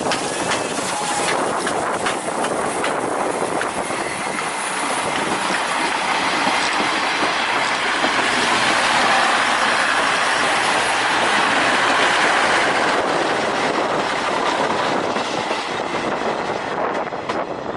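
SL Ginga steam train, hauled by the C58 239 locomotive, running past with its wheels clattering on the rails. The sound grows louder to a peak around the middle and fades near the end.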